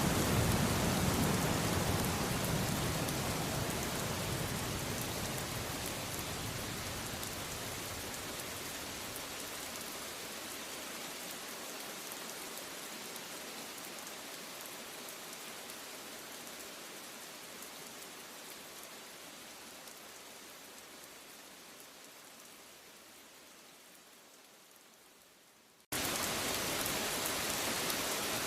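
Steady rain with a low rumble of thunder dying away at the start. The rain fades slowly and steadily for about 26 seconds, then cuts back in abruptly at full level near the end.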